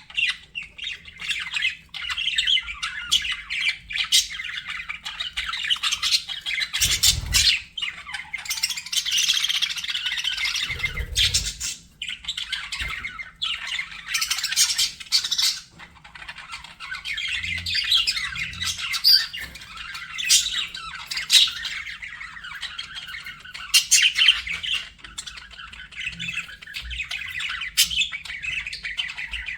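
Budgerigars chattering and warbling without a break, with frequent short, sharp squawks and chirps over the running chatter.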